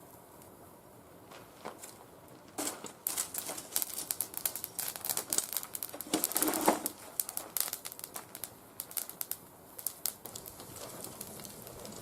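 Burning oak twigs crackling and popping in a fire pit, a dense run of sharp snaps that sets in a few seconds in and thins out near the end. The wood was left to dry for only a few months in shade.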